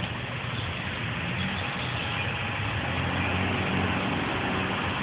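Fire truck's diesel engine idling steadily with a low hum.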